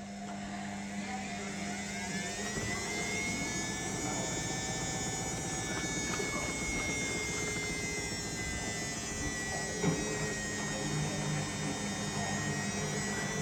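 Indesit My Time EWD61052 washing machine's drum motor speeding up with a rising whine over the first few seconds, then holding a steady whine, as in a spin; a single knock about ten seconds in.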